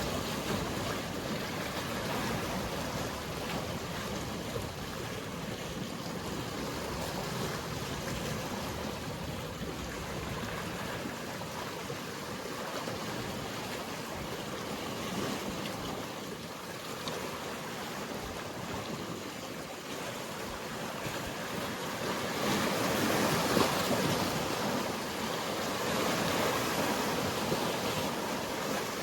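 Mediterranean sea waves washing and surging, a steady rush that swells louder about three-quarters of the way through.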